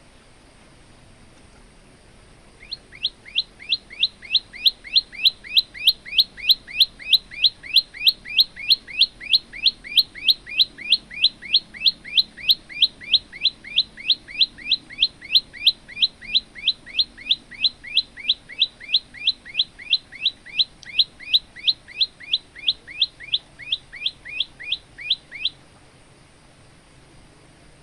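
Male prenjak lumut singing a long, rapid run of identical sweeping chirps, about three a second. The run starts about three seconds in and stops abruptly near the end.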